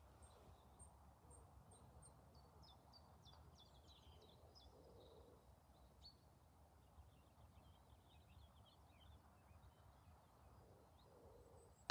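Near silence outdoors, with faint, scattered birdsong chirps. A single faint tap right at the end is the putter striking the golf ball.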